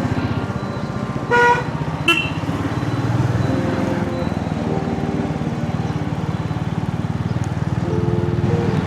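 Motorcycle engine running steadily while riding in traffic. A vehicle horn honks once, loud and brief, about a second and a half in, followed by a shorter toot.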